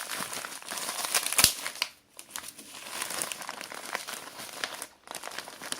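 Plastic bubble wrap being handled and unwrapped, crinkling and rustling, with a sharp knock about a second and a half in; the crinkling is densest over the first two seconds and then thins to scattered crackles.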